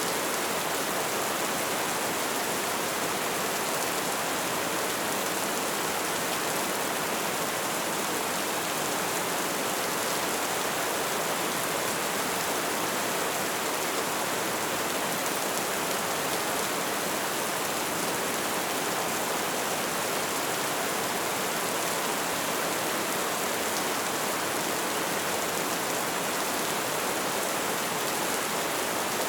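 Light rain falling, a steady even patter.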